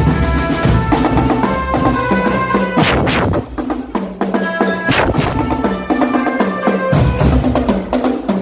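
Drum band playing: percussion strikes under a melody of held pitched notes, with two loud crashes about three and five seconds in. The deep drums drop out for a few seconds in the middle and come back near the end.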